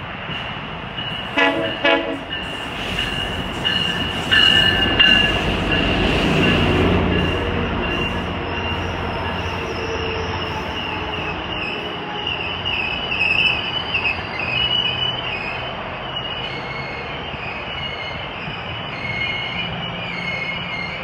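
GO Transit commuter train arriving: two short horn blasts about a second and a half in, then the locomotive's diesel engine rumbling loudest as it passes. Then the bilevel coaches roll by with a wavering high wheel and brake squeal as the train slows to a stop.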